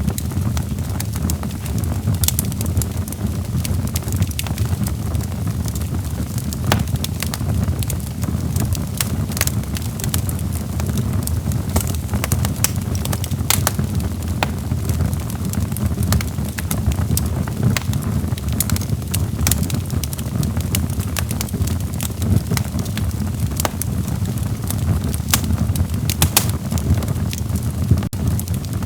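Burning logs in a fireplace crackling, with frequent irregular sharp pops and snaps over a steady low rumble of the flames.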